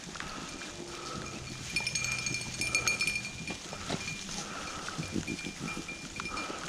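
A pack of rabbit hounds baying on a trail: a string of short repeated calls, densest a couple of seconds in.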